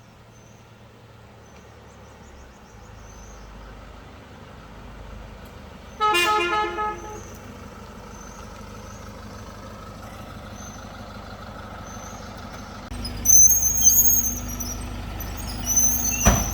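A vehicle horn gives one short honk about six seconds in, over a steady low engine and road hum. From about thirteen seconds in, loud high-pitched chirping repeats rapidly, and the hum grows louder.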